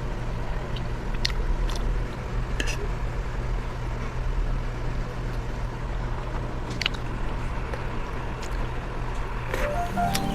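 A person eating and chewing food, with a few short sharp clicks over a steady low hum. Music starts near the end.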